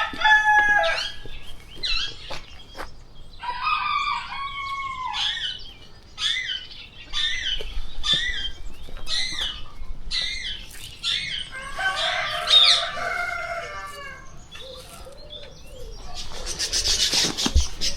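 Farmyard poultry calling: chickens and roosters clucking and crowing, mixed with the chirps and squawks of caged birds. There is a longer call about four seconds in, then a run of short sharp calls about twice a second, and a busier burst of calls around twelve seconds.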